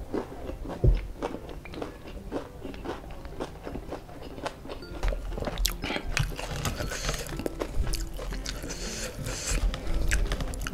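Close-miked chewing and biting of a mouthful of crispy fried chicken with rice, with many small wet crunches and clicks.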